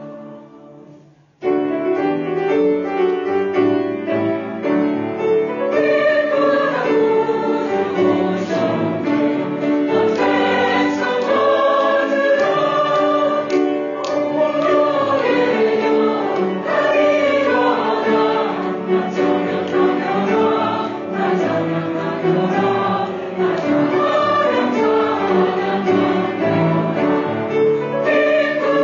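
Church choir singing a Christmas anthem in Korean with instrumental accompaniment, coming in abruptly about a second and a half in after a short fading instrumental passage.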